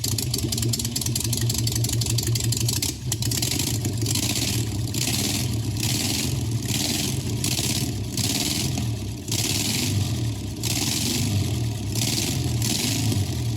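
A vehicle engine running steadily, with a high hiss over it that swells and fades roughly once a second.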